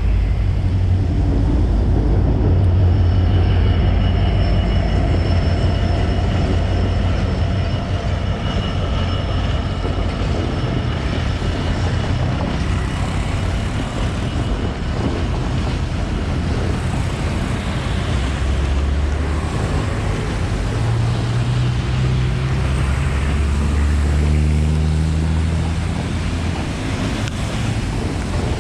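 Diesel locomotive running close by: a loud low engine drone that steps up in pitch several times in the second half as the engine throttles up, with a steady high whine over it in the first half.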